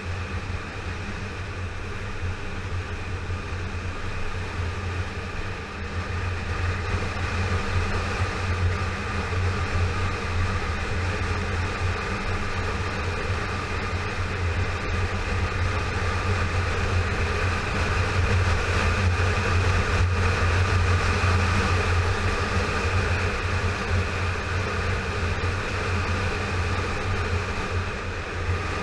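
Yamaha FZ6R motorcycle's 600cc inline-four engine running at a steady cruise, with wind and road noise, getting somewhat louder in the middle and easing off toward the end.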